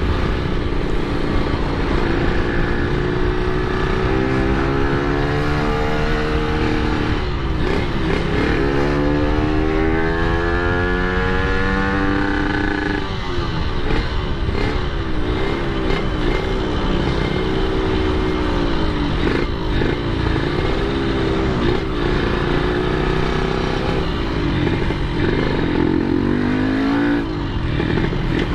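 Yamaha RX-King two-stroke single-cylinder motorcycle engine under hard acceleration, its pitch climbing in long sweeps with short breaks between them for gear changes. It then runs at varying throttle, the pitch wavering up and down. The throttle is opened wide to check whether the fuel supply runs short at high revs.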